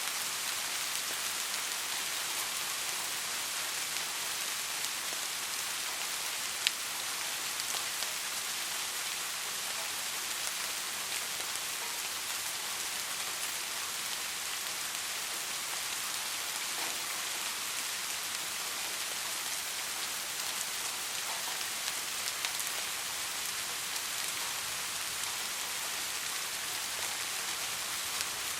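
Soft, steady rain: an even hiss of rainfall with scattered individual drops ticking through it, and one sharper drop about a quarter of the way in.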